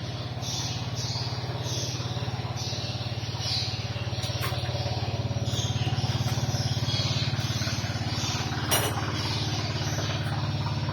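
Short high chirps repeating about once a second, the swiftlet lure call played by a swiftlet-house amplifier, over a steady low engine-like hum. A single sharp knock comes about nine seconds in.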